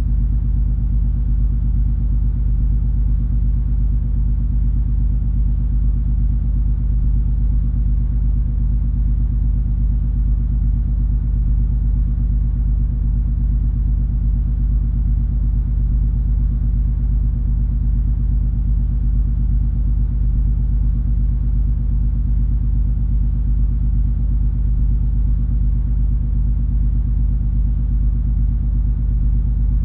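Steady low rumble and drone of the cruise ferry MS Color Magic under way, its engines giving a few even low hums under a fainter rushing noise. The sound stays unchanged throughout.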